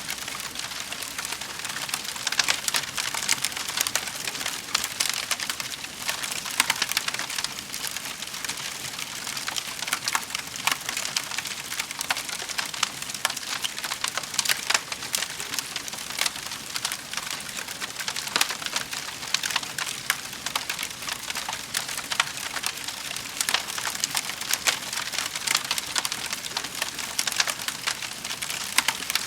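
Wood fire burning in a fireplace: a steady crackle of many small pops and snaps, with sharper louder snaps scattered throughout.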